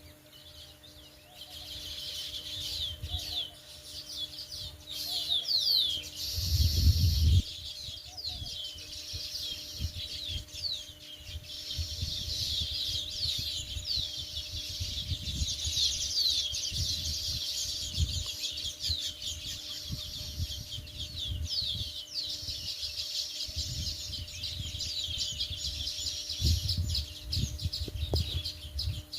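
A group of house sparrows chirping continuously in quick, overlapping chirps. Underneath is a low rumble that swells into a loud burst about seven seconds in.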